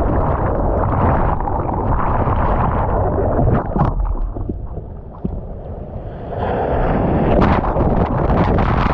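Wind buffeting the microphone over the rush of ocean surf. It eases for a couple of seconds about halfway through, with a few sharp splashes and knocks, then comes back.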